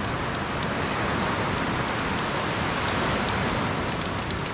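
Steady hiss of rain, with a few light ticks of drops in the first second.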